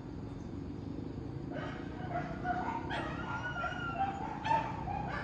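Short, high-pitched whining calls from an animal, repeated over a low background hum, starting about a second and a half in.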